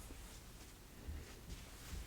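Faint room tone, nearly silent, with a couple of soft low bumps.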